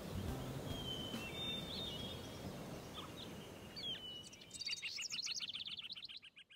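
Garden ambience with a few scattered short bird chirps, then, about four and a half seconds in, a bird's rapid chattering run of high notes, about eight a second, that fades away.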